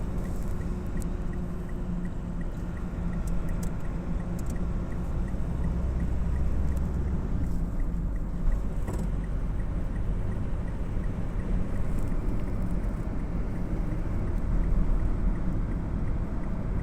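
Steady low rumble of a vehicle's engine and road noise, with scattered light clicks and a faint regular ticking.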